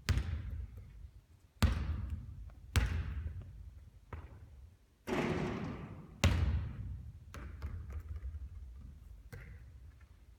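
A basketball bouncing on a court: several loud bounces about a second apart, each ringing away briefly, with a longer, noisier hit about five seconds in and fainter bounces near the end as the ball comes to rest.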